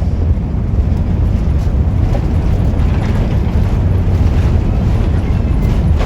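Loud, steady low rumble inside the cabin of an Airbus A350 airliner as it comes in to land.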